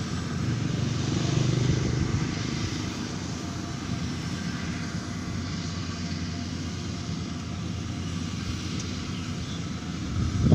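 Rice combine harvester's engine running steadily, slightly louder in the first few seconds.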